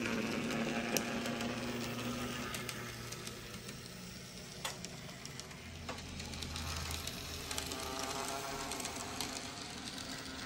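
N scale model train running on the track: the locomotive's small electric motor humming, with the wheels rattling and clicking over the rails.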